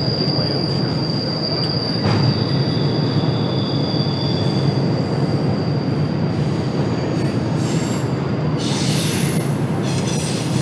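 Double-stack container freight train rolling across a steel girder bridge, a steady heavy rumble with a high, steady wheel squeal. Near the end the squeal gives way to higher screeches.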